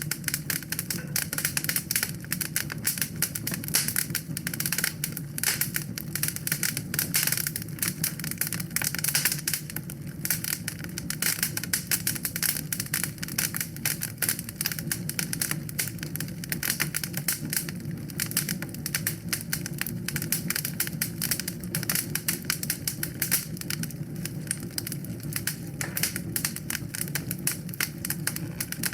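Wood fire in a fireplace crackling, with dense, irregular pops and clicks over a steady low rumble.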